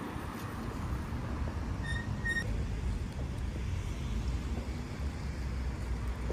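Steady low rumble of outdoor background noise, with a short high two-part squeak about two seconds in.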